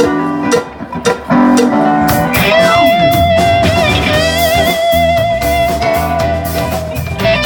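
Live rock band playing, led by electric guitar. A few short plucked guitar notes come first. About two seconds in, bass and drums join under a long held note with vibrato.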